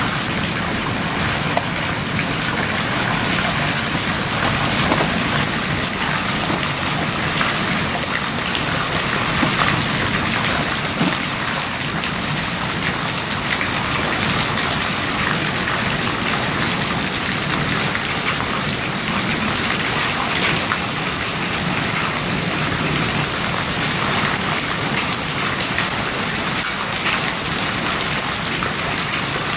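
Steady heavy rain during a thunderstorm, a dense even hiss of drops hitting surfaces.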